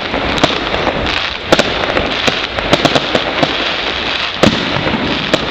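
Fireworks display going off: a dense, continuous crackle and hiss of bursting shells with many sharp, irregular bangs. The loudest bang comes about one and a half seconds in, and another strong one about four and a half seconds in.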